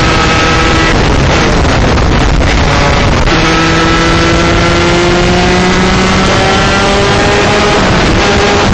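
125cc two-stroke shifter kart engine running hard under load, with heavy wind on the microphone. The engine note breaks off briefly a few times in the first three seconds, then climbs steadily in pitch through one long pull.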